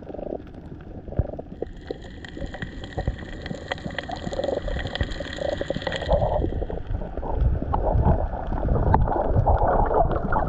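Muffled water sloshing and gurgling with scattered clicks, as heard by a GoPro in or just under the sea. Faint steady high tones run through the middle, and the sloshing grows louder in the second half.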